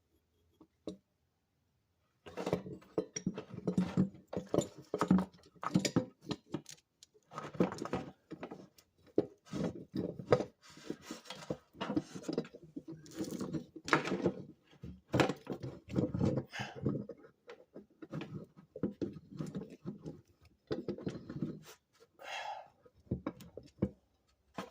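Irregular knocking and clattering of tools and parts being handled while working on a car, starting about two seconds in and going on without a steady rhythm.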